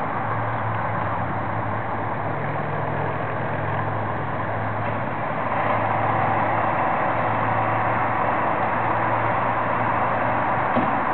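Diesel engine of a Ferrara fire pumper on a Spartan Gladiator chassis running steadily as the truck pulls out of the station, getting louder about halfway through.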